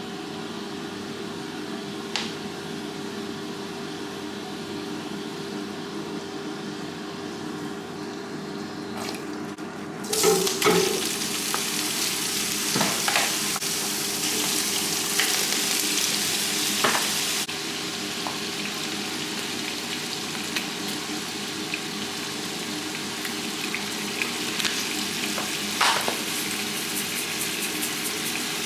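Food frying in a hot pan. The sizzling jumps up sharply about ten seconds in and eases a little later, with occasional clicks of a utensil over a steady low hum.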